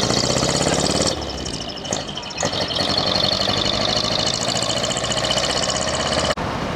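Large truck diesel engines running as the trucks pull away, with a dip about a second in and a sudden break near the end.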